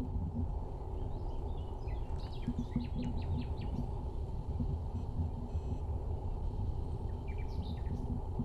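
Small birds chirping in quick runs of high notes, twice, over a steady low rushing noise.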